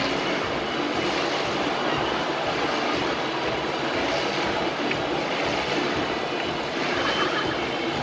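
Motorcycle engine running hard inside a circus cage, a steady continuous din.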